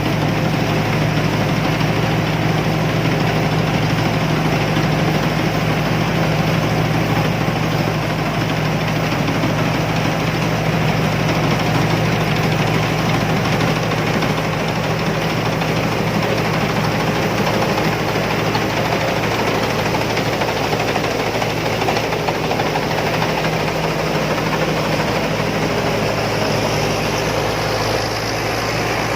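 Combine harvester's engine running steadily with a deep, even hum.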